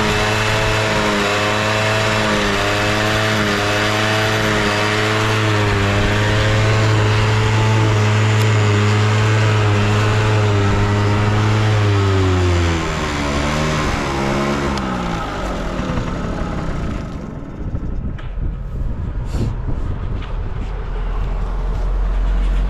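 Yamaha Passola scooter's small two-stroke engine running steadily with no abnormal noise. About 12 seconds in its pitch drops and it winds down to a stop. A low rumble and a few knocks follow.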